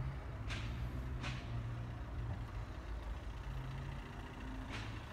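Low, steady motor-vehicle engine rumble, with three short soft hisses over it.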